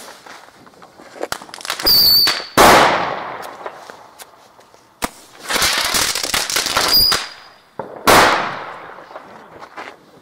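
Consumer fireworks and firecrackers going off: bursts of rapid crackling pops about two seconds in and again from about five and a half seconds, with loud single bangs in between that trail off.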